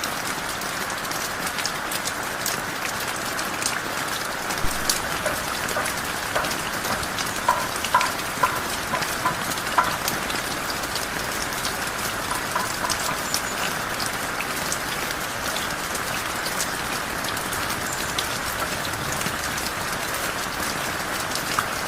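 Heavy rain falling steadily, with sharper drops striking close by, a cluster of louder ones between about five and ten seconds in.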